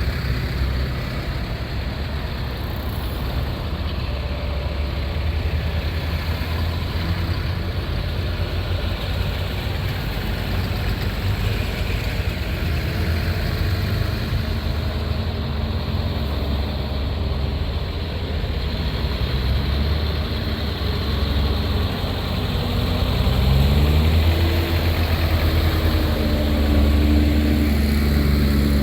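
Tractor engine running steadily under load, its pitch rising about three-quarters of the way through as the revs climb.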